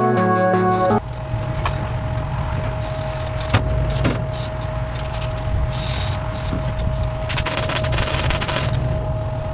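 Background music cuts off about a second in. Then a MIG welder crackles and sputters as it tacks a sheet-steel patch panel into a car's package tray, with louder bursts of crackle and a steady hum underneath.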